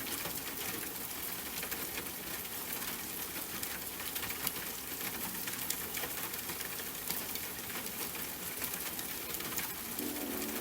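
Steady rain, with many sharp individual drop hits over an even hiss.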